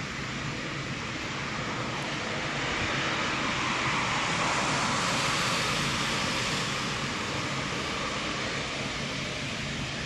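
Military jet aircraft engines on a ground run-up for engine adjustment, a steady jet rush that swells a little in the middle and then eases back.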